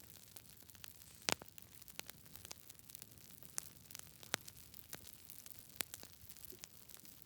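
Wood fire burning in a fireplace: irregular sharp crackles and pops over a soft steady hiss, with one louder pop a little over a second in.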